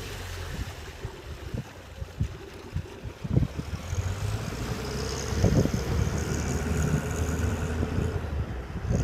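Amphicar Model 770's rear-mounted four-cylinder engine running steadily as the amphibious car drives off the bank into the lake and motors through the water, with wind thumping on the microphone a few times midway.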